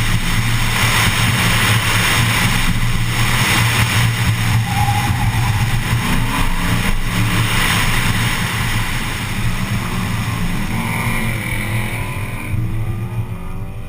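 Muscle car engine running steadily at autocross, a low hum under a wash of road and wind noise. It eases off slightly, and the higher noise drops away about a second before the end.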